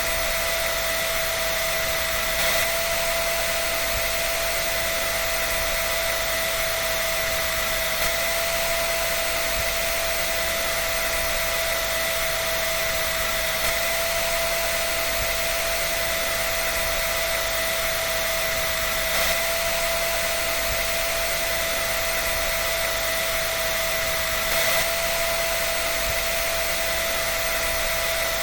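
Hair dryer running steadily: an even rush of air over a constant motor whine, with a faint bump about every five and a half seconds.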